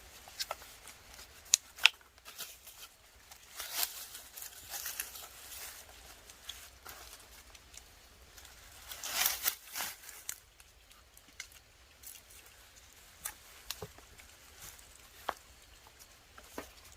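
Irregular rustling and crinkling with scattered sharp clicks and snaps, louder for a moment about nine seconds in.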